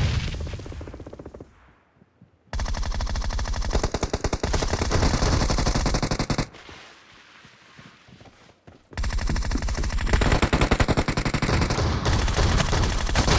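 Automatic gunfire, most likely from a shooter video game: a single loud bang that rings out at the start, then two long sustained bursts of rapid fire of about four seconds each, with a short pause between them.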